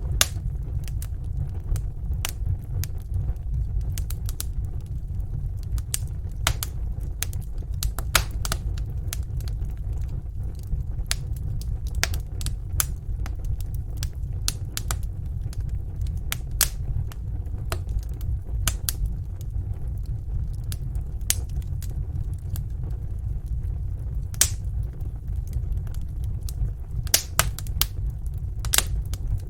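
Fireplace fire crackling, with irregular sharp pops and snaps, several of them louder near the end, over a steady low rumble.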